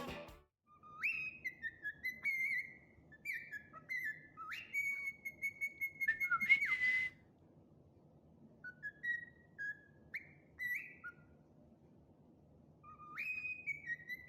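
A bird whistling a tune in clear notes, many starting with a quick upward swoop. It whistles three phrases, the first ending in a long held note, with short pauses between them.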